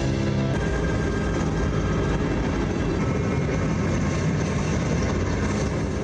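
A loud, steady rumble with a roaring, machine-like quality from the film's soundtrack. Sustained music tones cut off in the first half second.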